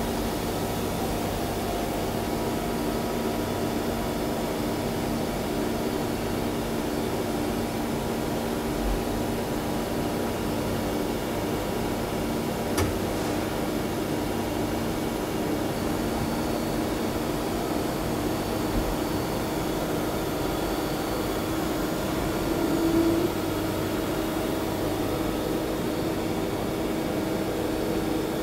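CNC lathe running with a steady machine hum of several held tones. There is a single sharp click about 13 seconds in and a brief louder whine about 23 seconds in.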